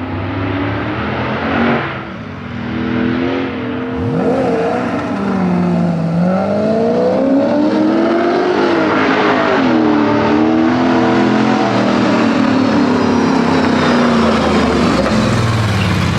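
Vehicle engine driven hard, its note rising and falling over and over as it revs up and eases off, with quick climbs about four seconds in and again around the middle.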